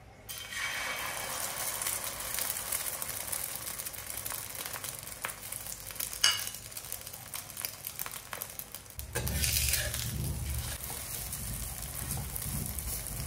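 Oil sizzling on a hot dosa griddle (tawa) as a masala omelette fries, a steady hiss that starts suddenly just after the start. A sharp tick about six seconds in, and a low rumble joins about nine seconds in.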